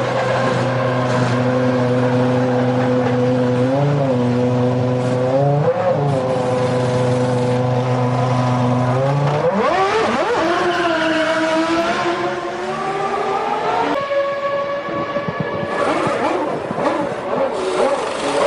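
Formula One car engine held at a steady high note with a couple of brief blips, then revving up sharply as the car accelerates away about halfway through. After an abrupt cut, another engine revs up and down near the end.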